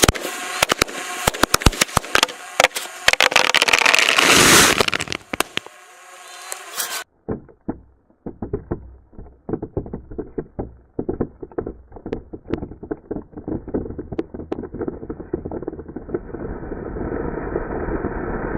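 Firecrackers going off inside a large plastic bottle: rapid sharp bangs and crackling, with a long hissing burst about three to five seconds in. From about seven seconds the sound turns duller, a dense run of smaller pops and crackles that thickens near the end.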